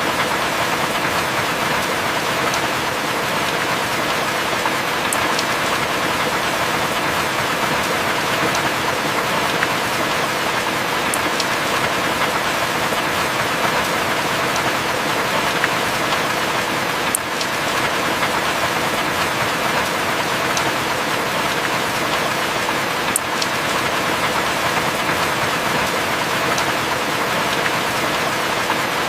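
Heavy rain falling steadily, an even hiss with a few faint sharp ticks of single drops scattered through it.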